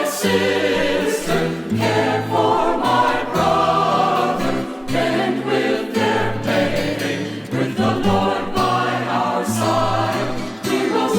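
Choir singing a hymn over instrumental accompaniment with held bass notes.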